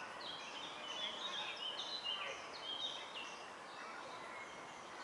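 Birds chirping in quick runs of short high notes, busiest in the first three seconds, over steady outdoor background noise.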